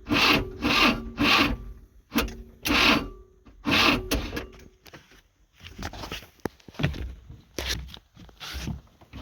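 Rhythmic scraping strokes, about two a second, like hand work with a saw, file or sandpaper; after about four and a half seconds they turn fainter and more spaced out.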